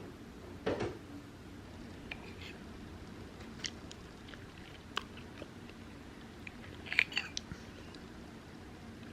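A person eating: chewing and small clicks of utensils against a dish, with a louder clatter about seven seconds in.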